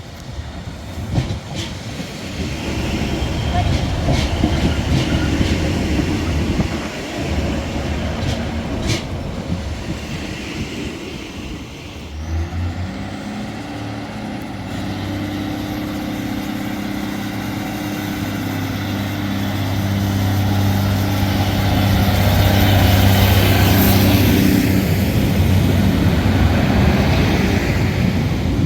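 Passenger train running on the rails, with a few sharp clicks in the first half. About halfway through, a steady low engine note sets in with a high whine rising in pitch, and the sound grows louder toward the end.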